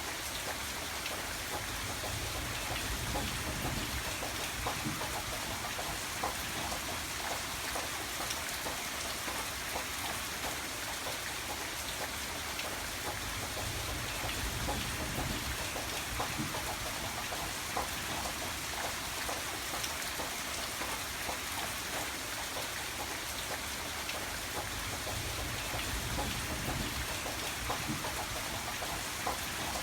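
Steady rain, with many individual drops ticking on a surface over an even hiss. A low rumble swells and fades a few times underneath.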